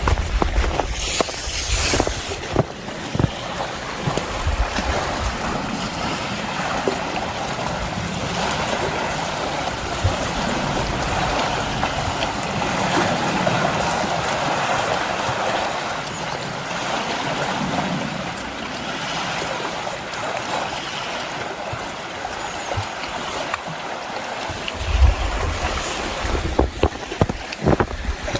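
Steady outdoor rushing noise, swelling and easing slowly, with low wind buffets on the microphone near the end.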